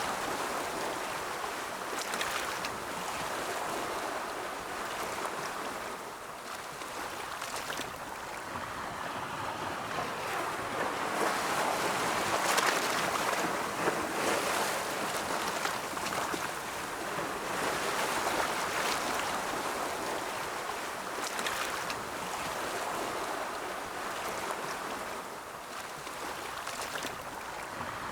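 Ocean waves rolling and breaking on a shore, a steady surf wash that swells and eases every few seconds.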